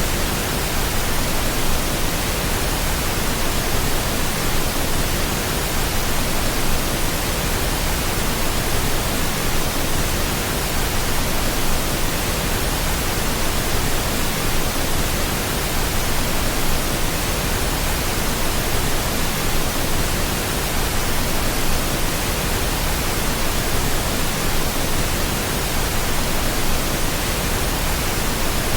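Steady pink noise: an even, unchanging hiss with a soft, deep rush, played continuously as a sleep aid for babies.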